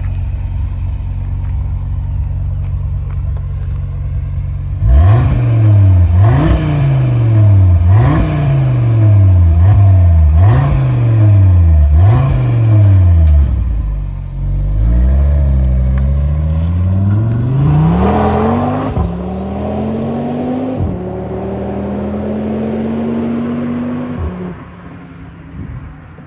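Audi RS3 8Y's 2.5-litre turbocharged five-cylinder engine through a non-resonated Milltek GPF-back exhaust, idling, then revved in five quick blips in a row. After that comes a slower climb to higher revs and a long steady hold at moderate revs before it drops back toward idle near the end.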